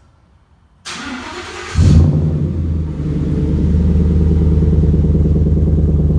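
A 2014 Ford F-150's 5.0 L V8, fitted with a Roush cat-back exhaust, being started. The starter cranks for about a second, then the engine catches with a loud flare and settles into a steady idle.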